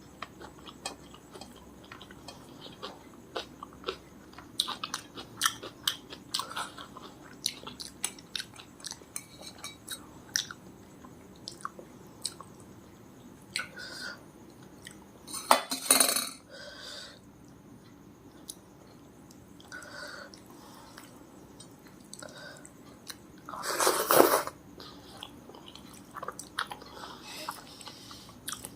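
Close-up eating sounds: a person chewing a meal of rice and curry, with many small wet mouth clicks. Two louder, longer noisy bursts come about halfway through and again near the end.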